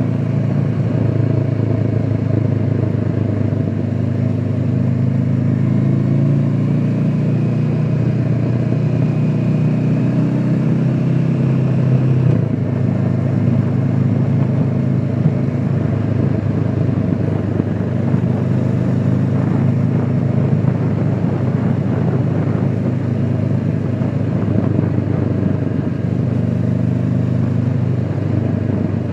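Honda CBR500R's parallel-twin engine running under way, heard through a microphone in the rider's pocket along with the rush of wind and road. The engine note climbs for the first dozen seconds, drops sharply, then rises and falls again through the rest.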